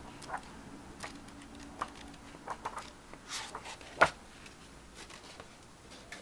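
A paperback guitar tab book being handled and leafed through: scattered paper rustles and soft clicks, with one sharp tap about four seconds in.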